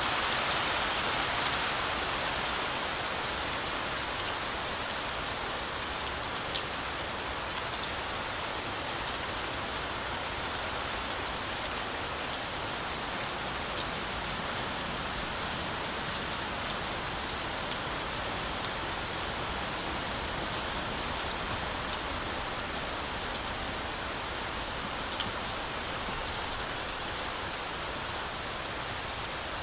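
Heavy rain falling steadily through forest trees, an even hiss with a slight swell in the first couple of seconds and two faint sharp drip ticks.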